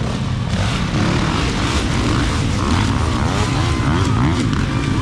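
Several dirt bike engines revving together, their pitch rising and falling over and over.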